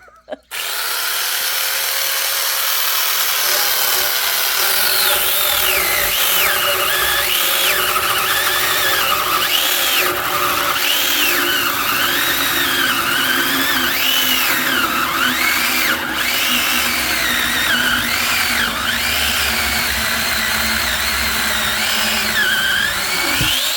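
Chainsaw cutting through pine firewood, running continuously, its pitch rising and dipping as the chain bites into the log and eases off. It starts about half a second in and cuts off abruptly at the end.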